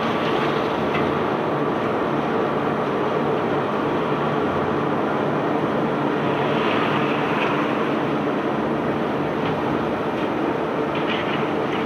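Unloading machinery of a self-unloading barge running steadily, a hum with a rattling noise over it. A few light knocks come near the end.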